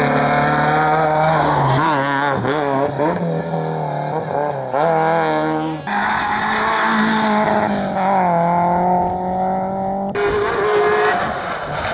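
Rally car engines at full attack on a hillclimb stage, revving up and dropping back with gear changes. The sound switches abruptly to another car about six seconds in and again about ten seconds in.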